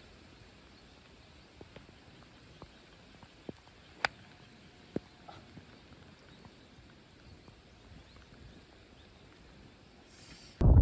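Quiet outdoor background on a golf course, with a few light ticks and one sharp click about four seconds in. A loud, low rushing noise starts suddenly at the very end.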